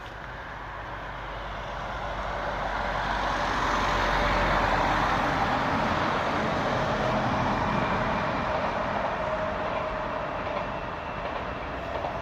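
A passing vehicle, its rushing rumble swelling to a peak about four seconds in and then slowly fading.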